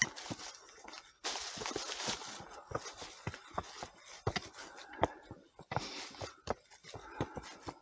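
Hikers' footsteps on a hard, stony trail: irregular sharp footfalls with scuffs, about two a second, and a second-long burst of rustling noise about a second in.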